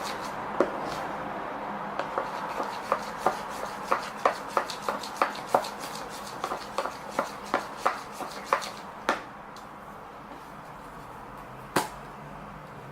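Elmer's glue and shaving gel being stirred together by hand, a steady scraping with a run of sharp clicks and taps about two to three a second. The clicks stop about nine seconds in, with one more near the end.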